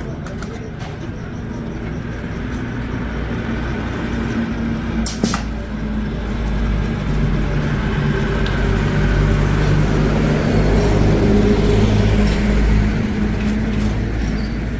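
A steady mechanical hum with several low tones, slowly getting louder and peaking about twelve seconds in, with a sharp click about five seconds in.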